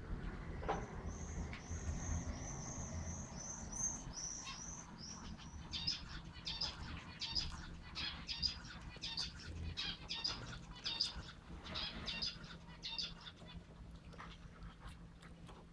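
A small bird chirping repeatedly: a quick run of high chirps, then a regular series of about two chirps a second, over a faint steady low hum.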